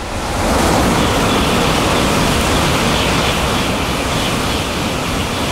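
Shinkansen bullet train running through a station at high speed without stopping: a rushing noise that climbs to its loudest under a second in, holds steady for about five seconds as the carriages stream past, and begins to die away near the end.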